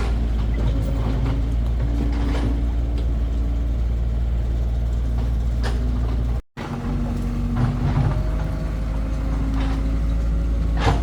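Heavy engine running steadily, with a low drone and a held whine that comes and goes. It breaks off for an instant about six and a half seconds in, then carries on.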